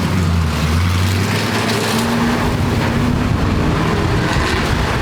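A vehicle engine running at a steady speed, a low even drone, with a constant rushing noise of wind or road behind it.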